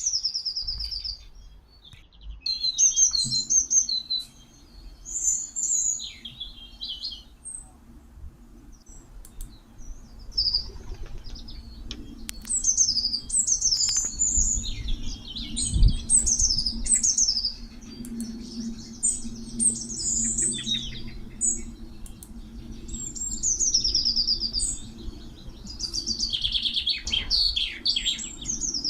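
Garden birds chirping and calling in a busy mix of short chirps, chattering runs and high falling whistles, with brief pauses between bouts.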